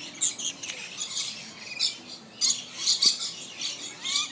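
A flock of lorikeets chattering and screeching, many shrill calls overlapping, loudest a little past halfway, with a short rising whistle near the end.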